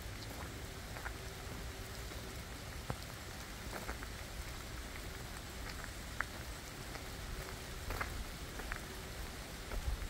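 Steady rain falling through forest, with irregular sharp ticks of single drops striking close by.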